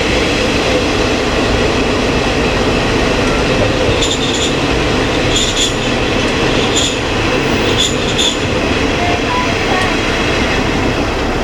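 Kiha 20 diesel railcar running along the line: a steady mix of its diesel engine and wheels on the rails. From about four seconds in there are several short, high-pitched squeals.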